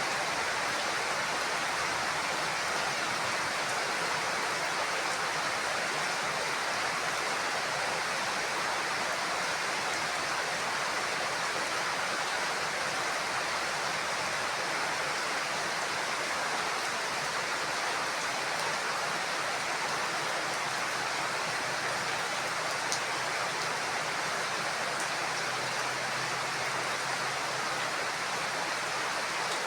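Heavy rain falling steadily on a roof, an even, unbroken hiss with no thunder in this stretch.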